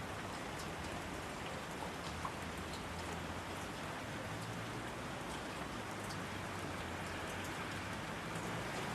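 Steady rain falling: a dense, even hiss of rain with scattered individual drops ticking through it.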